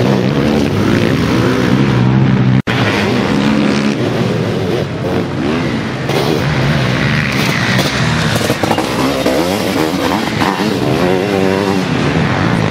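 Sidecarcross outfits' motocross engines revving hard, the pitch climbing and falling with the throttle as the outfits race over jumps and through corners on a dirt track. The sound cuts out for an instant a few seconds in.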